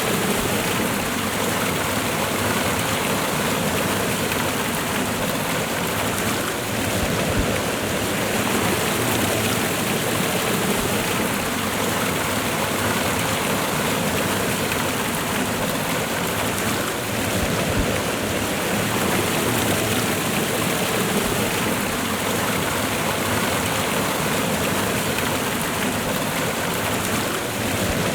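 Waterfall and fast-flowing river water rushing steadily.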